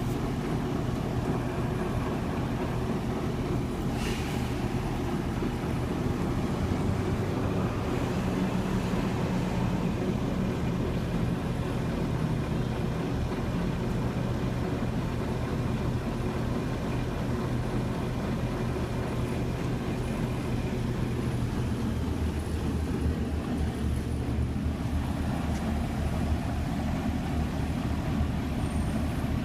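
Delivery truck engine idling steadily while parked, a low continuous hum whose pitch shifts lower about two-thirds of the way through, with one short click about 4 seconds in.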